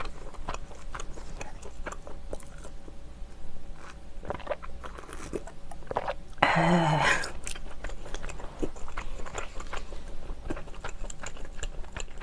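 Close-miked chewing of firm, chewy steamed clam meat, with many small wet mouth clicks. A short closed-mouth hum comes about six and a half seconds in.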